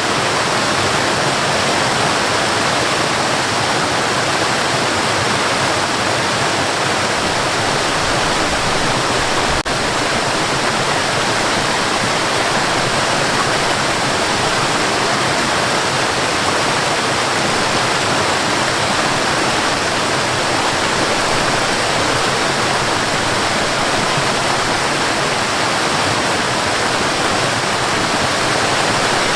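Waterfall: a steady, loud rush of falling water, unbroken apart from a brief click and dip a little under ten seconds in.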